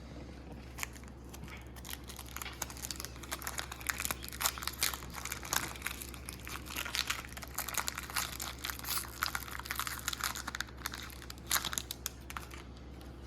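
Foil booster-pack wrapper crinkling and crackling in the hands, with irregular crackles that come thick and fast through the middle and thin out near the end, over a low steady hum.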